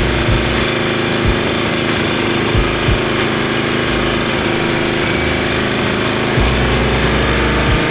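Gas snowblower engine running steadily while clearing snow, with a few brief low thumps.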